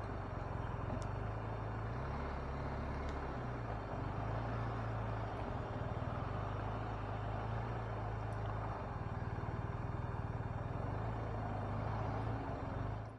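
BMW R 1250 RT's boxer-twin engine running steadily at low revs in slow traffic, its low note shifting a little in pitch a few times, over steady road and traffic noise.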